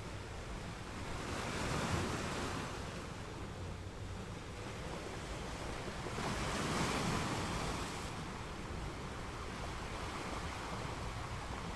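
Kraft-paper pages of a ring-bound journal rustling and sliding as they are handled and turned, with two louder swells of rustling about two seconds in and again around seven seconds.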